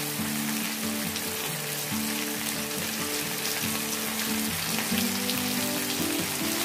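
Shrimp frying in a wok: a steady crackling sizzle, with background music playing a melody over it.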